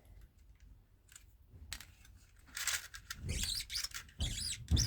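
Plastic clicking and rattling of a Stihl BR420 recoil starter pulley being turned by hand to wind tension onto its rewind spring. The sounds start after a quiet first second and get busier about halfway in, with a few dull knocks.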